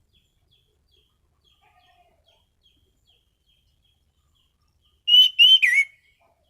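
Anis cendana thrush giving a short, loud burst of three sharp whistled notes about five seconds in, the last note sliding downward; before it only faint, evenly repeated high chips are heard.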